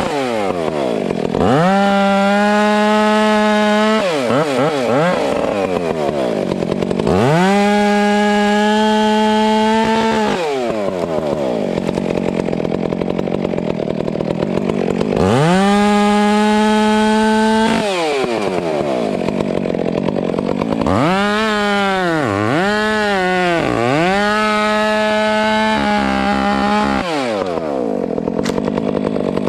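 Two-stroke chainsaw revving to full throttle and holding there for two to three seconds at a time while cutting through pine, three times, dropping back to idle between cuts. Near the end the throttle is blipped several times in quick succession before it revs up again.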